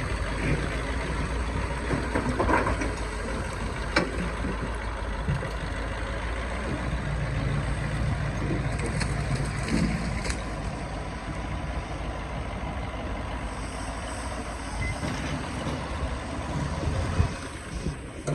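Excavator's diesel engine running steadily, with a few sharp knocks along the way.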